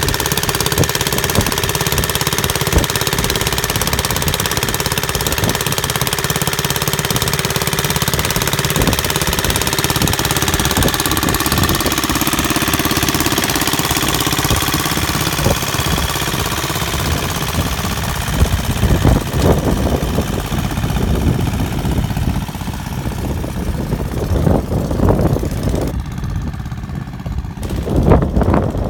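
Custom-made mini tractor's engine running with a steady, rapid knocking beat, growing uneven with irregular louder thumps in the last ten seconds.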